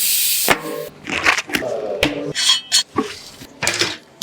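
Metallic clinking and clattering: a loud rush of noise at the start, then a run of sharp clicks and short rings.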